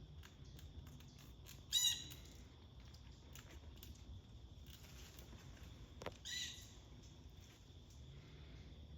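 Blue jay giving two harsh squawks, about four and a half seconds apart.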